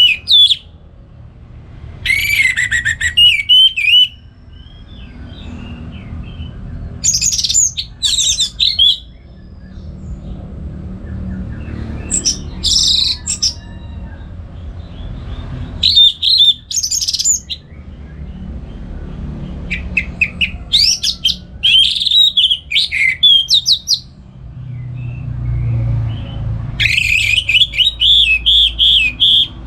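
Orange-headed thrush (anis merah) singing loud, varied whistled phrases of one to three seconds each, about six of them with pauses of a few seconds between. A steady low hum runs underneath.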